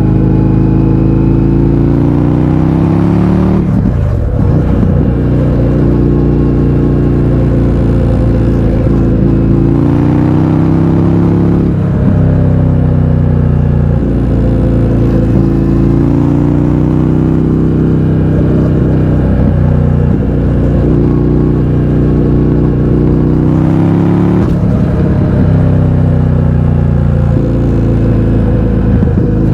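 2020 Indian FTR 1200 Carbon's V-twin engine running loud through an Akrapovič exhaust with the baffles removed, the bike under way. The engine note holds steady stretches and dips briefly as the throttle closes, about four seconds in and again around twelve, twenty and twenty-five seconds in, then picks up again.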